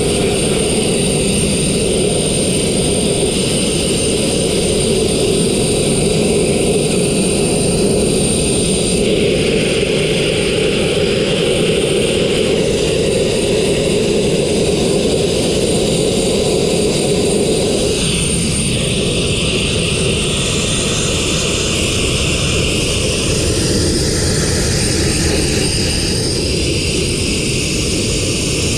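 Abrasive blasting nozzle firing fine crushed glass grit on compressed air: a steady, loud hiss and rush. Its tone shifts a few times, at about 9, 18 and 26 seconds.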